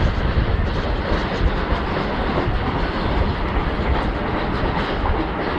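Wagons of an Indian Railways military goods train rolling past, a loud, continuous rumble of wheels on the rails.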